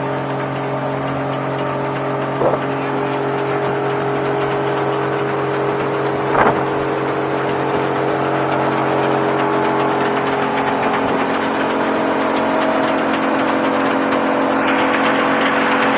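Large forestry wood chipper running under load, its engine holding a steady drone over the noise of wood being chipped. Two short, sharp cracks come a few seconds in and again about four seconds later, and near the end the sound changes abruptly to a harsher, narrower noise.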